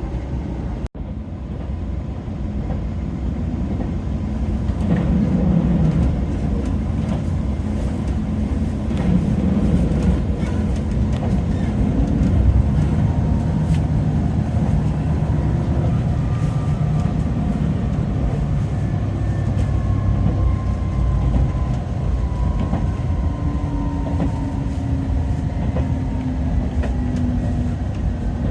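JR Shikoku 2000 series diesel railcar running between stations: a steady rumble of engine and wheels on the rails, with tones that glide slowly downward in pitch in the second half. A brief dropout about a second in.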